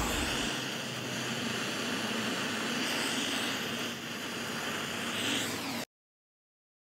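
Handheld gas torch blowing a steady hissing flame onto solid fire-starter fuel to light a stack of firewood; the sound cuts off suddenly about six seconds in.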